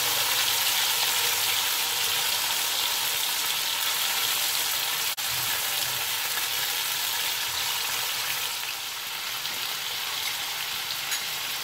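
Raw diced chicken and chopped garlic sizzling steadily in hot oil in a wok, just after the chicken went into the pan, stirred with a spatula through the first part. There is a momentary break in the sound about five seconds in.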